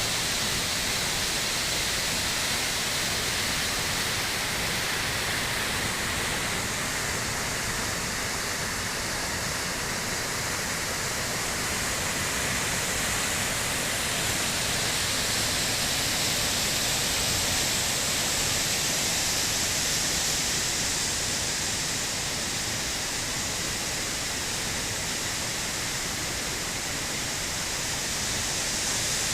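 Waterfall of rain runoff pouring down a ravine wall: a steady, even rush of falling water.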